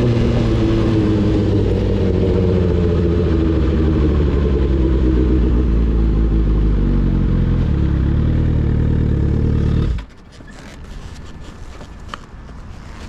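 Sport motorcycle engine running, its pitch easing down at first and then holding steady, until it stops abruptly about ten seconds in, leaving faint clicks and rustling.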